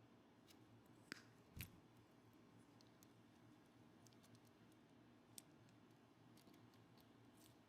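Near silence: room tone with a few faint, scattered clicks, the strongest about a second and a half in.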